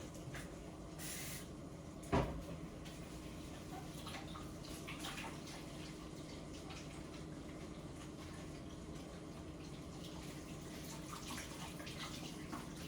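Kitchen sink tap running steadily as hands are washed under it, with a single sharp knock about two seconds in.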